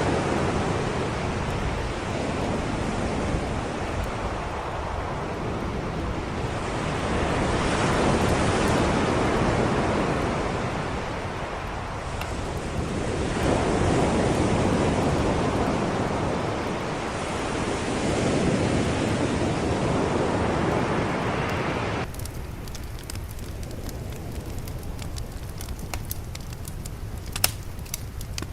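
Sea waves washing in, the surf swelling and easing every five or six seconds. About three quarters of the way through it cuts abruptly to a fire crackling, with a few sharp pops near the end.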